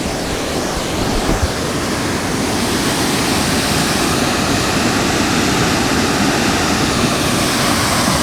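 Waterfall cascade rushing: a steady noise of falling water that grows louder over the first few seconds, then holds.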